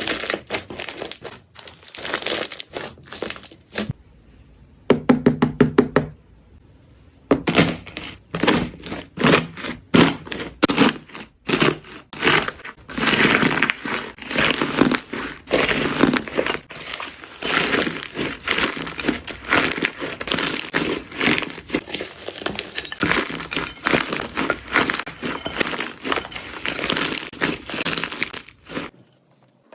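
Jelly slime being squeezed and poked by hand: dense wet clicking and crackling, with a brief pause and a quick run of sharp clicks partway through before the crackling picks up again and goes on almost without a break.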